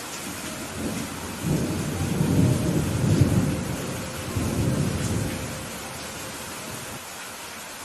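Steady rain with thunder rolling underneath: a deep rumble builds about a second in, swells twice, and fades away after about five seconds.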